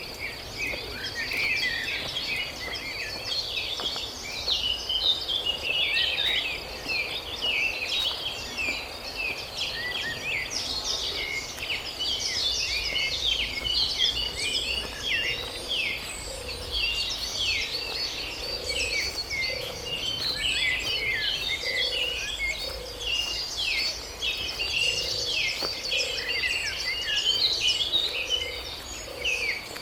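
A chorus of many forest birds chirping and calling continuously, with a steady high insect buzz underneath. Soft low notes repeat about once a second in the second half.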